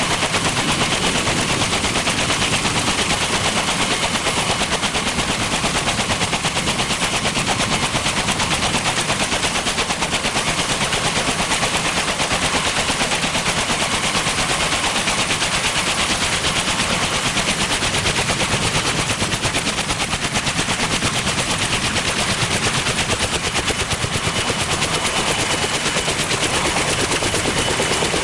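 Kaman K-MAX helicopter's intermeshing twin rotors chopping in a fast, steady beat, loud and close, with a faint turbine whine above it.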